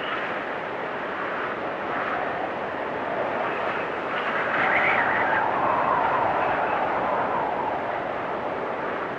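Storm wind blowing with a whistling tone, a steady rush with shifting pitch. A gust swells about halfway through, its whistle sliding lower in pitch as it passes.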